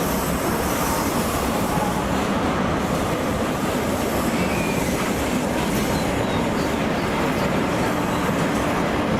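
A train running through the station: a steady, loud noise of wheels and running gear on the rails, with a faint brief squeal about four and a half seconds in.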